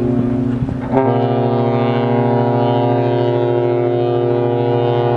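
Ship's horns blowing long, steady blasts in the harbour. About a second in, a second, brighter horn tone joins the first and holds with it.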